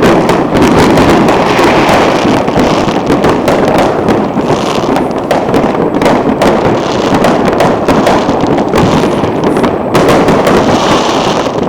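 Dense, continuous barrage of fireworks: many overlapping bangs and crackles with no break, very loud.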